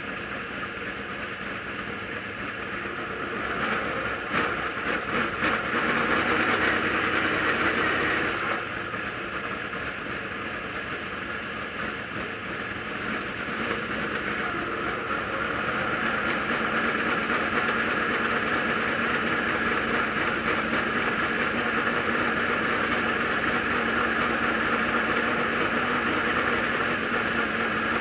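Car engine running at low speed, growing louder for a few seconds about four seconds in, easing off, then louder again from about halfway through.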